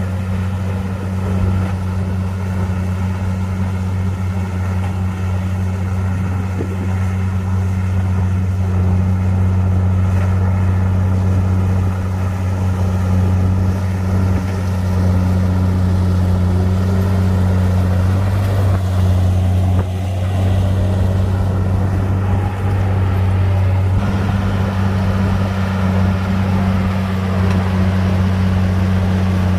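Bulldozer's heavy diesel engine running steadily under load as a low, continuous drone, with a faint whine that rises and falls in the middle.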